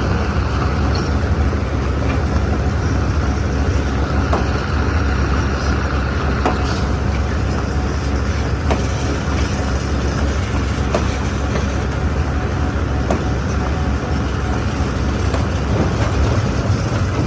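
Stone crusher plant running: a steady, heavy mechanical drone with occasional sharp knocks of stone.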